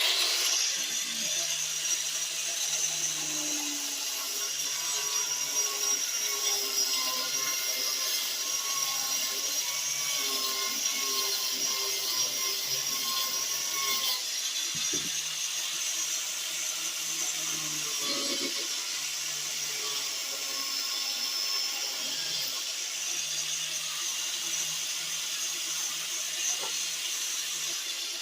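Electric power tool running steadily with a continuous whirring hiss, starting abruptly at the outset.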